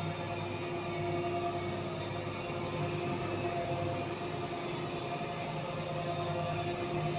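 Lift running: a steady mechanical hum with several steady tones over it.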